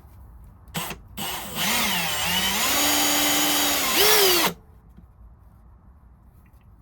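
Power drill spinning a chucked brass valve stem while it is polished. A short blip of the motor comes first, then about three seconds of motor whine that dips and rises in pitch with the trigger, climbs and cuts off suddenly.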